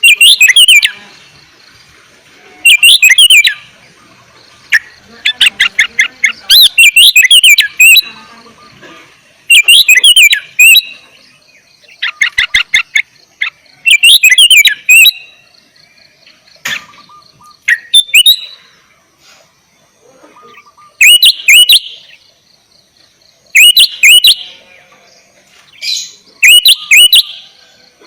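Sooty-headed bulbul (kutilang) singing loudly: short bubbly phrases of whistled notes come every two to three seconds, with quick runs of rapid notes between some of them.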